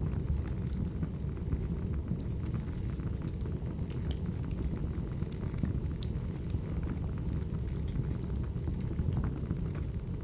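Wood fire burning with a steady low rumble and scattered sharp crackles and pops from the logs.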